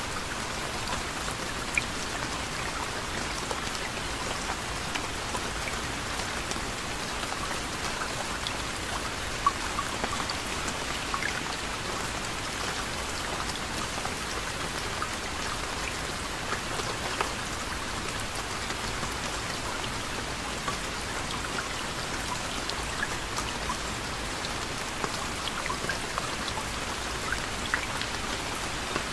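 Soft, steady rain falling, with many individual drops ticking sharply against a surface.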